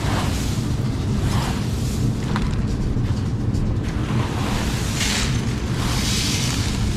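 Combine harvester running steadily: a loud, deep, even drone, with soft swells of hiss rising and falling every second or so.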